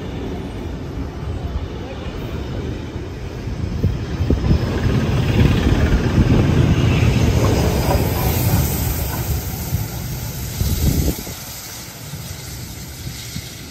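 A steam-hauled heritage passenger train rumbling past on the rails. It grows louder as the steam locomotive and its tender go by about six seconds in, then fades as the train pulls away.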